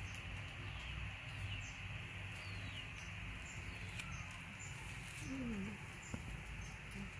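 Faint steady background hiss with a few faint bird chirps and a short falling coo-like call about five and a half seconds in.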